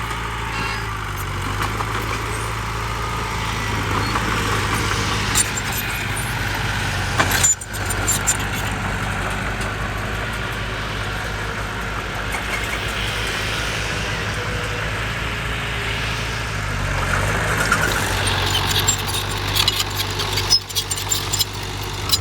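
Heavy diesel earthmoving machine engine running steadily, with metallic clatter and rattling over it. The sound breaks off for an instant twice.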